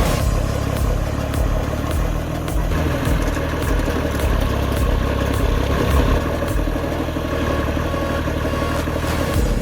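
A large machine's engine running steadily, with some clatter over it.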